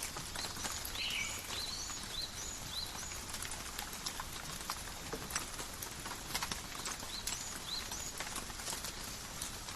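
Steady rain on forest foliage, with many separate drops striking leaves in sharp, irregular ticks. Short high chirping notes come through over the first three seconds and again briefly near the end.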